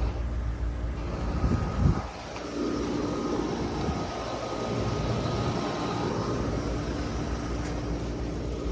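Outdoor air-conditioning condenser units running: a steady fan whoosh and compressor hum with a faint steady tone. A deep rumble drops away about two seconds in.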